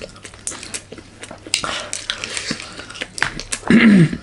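Eating at the table: scattered clicks of utensils or hands on a plate and chewing. Near the end comes a short, loud vocal sound from one of the eaters.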